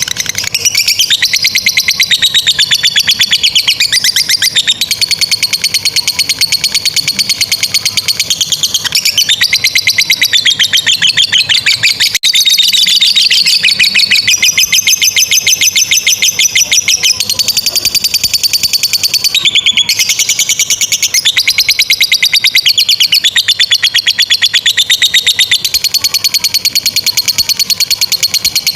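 Lovebirds in long 'ngekek' chattering song: shrill, very rapid repeated notes strung into long, nearly unbroken runs with only a few short breaks.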